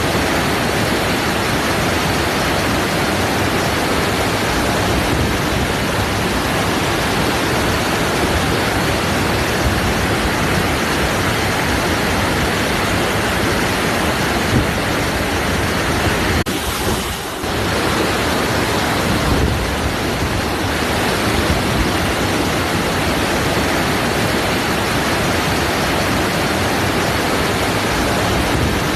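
Waterfall: a steady rush of falling water that drops in level once for about a second, a little past halfway through.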